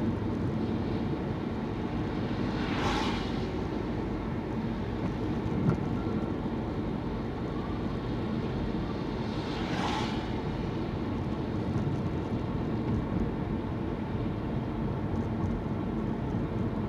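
Steady car engine and road noise heard from inside the moving car's cabin, with two brief hissing swishes about three seconds and ten seconds in.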